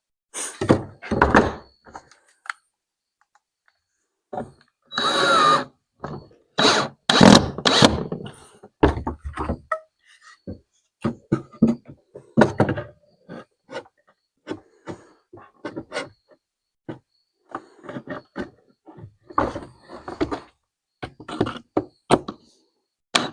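Irregular knocks, clunks and short scrapes of tools and parts being handled and set down on a workbench, louder clusters a few seconds in and a steadier run of small taps later on.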